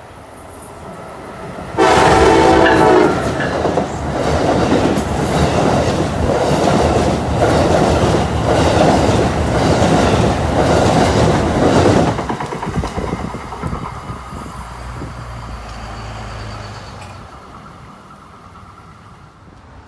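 Amtrak Northeast Regional train sounding one short horn blast as it comes on, then passing close at speed over a steel girder bridge with a rhythmic clatter of wheels over the rail joints. The noise fades as the train goes away.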